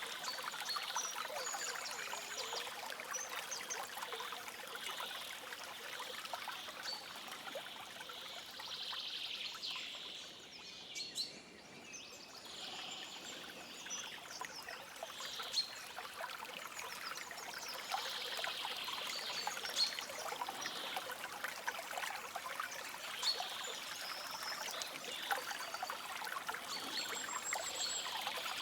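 A small stream trickling and babbling steadily, with scattered short bird chirps above it. The water briefly drops in level about eleven seconds in, then runs on as before.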